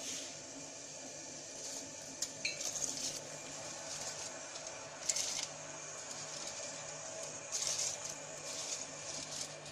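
Light clinks and scrapes of a utensil against a cooking pot as rice is added to boiling water. The clatters come in a few short bunches over a low steady hum.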